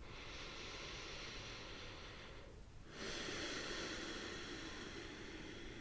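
A person's slow, deep breaths close to the microphone: one long breath, a short pause about two and a half seconds in, then a second, slightly louder breath that slowly fades.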